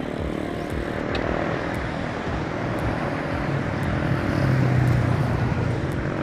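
Steady rush of wind and road noise on an action camera's microphone during a bicycle ride. A motor vehicle's engine hum swells about four seconds in, then eases.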